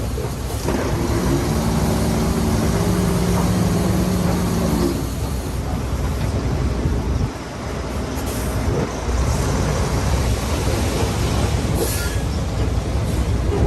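Heavy diesel earthmoving machinery at work. An engine runs at a steady pitch for about five seconds, then gives way to a rougher, noisier rumble.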